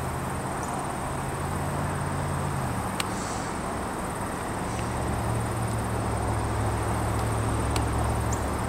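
Distant approaching GO commuter train, its diesel locomotive a low steady hum that grows a little louder in the second half. A steady high insect buzz runs over it.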